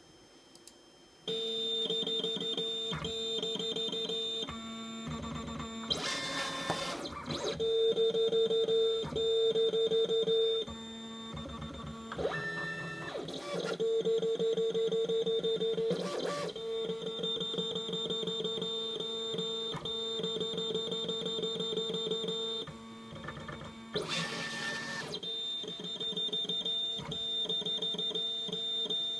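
Black Cat Cougar Pro CNC cutter's stepper motors whining as the cutting head and roller move during the autoscan, which reads the sheet's registration marks with the laser eye. The sound starts abruptly about a second in as a steady high whine, and several louder rushing sweeps come as the carriage travels quickly.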